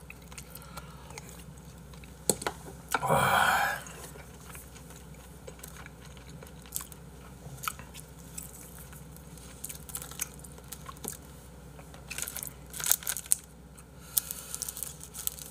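Close-up eating sounds of a person working through a bowl of seonji haejangguk (ox-blood hangover soup): chewing and biting, with one louder slurp about three seconds in and a run of small utensil clicks near the end.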